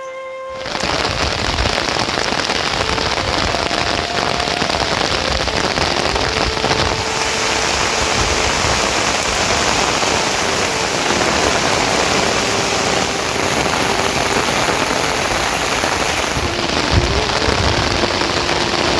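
Heavy rain falling steadily, a dense even hiss that starts abruptly about half a second in.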